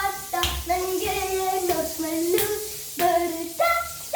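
A high voice singing a melody in held notes, with several sharp percussive hits between the phrases.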